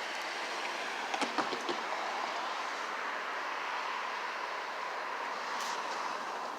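Train rolling through a railroad crossing: a steady noise of wheels on rail, with a few sharp clicks over the rail joints about a second in and again near the end.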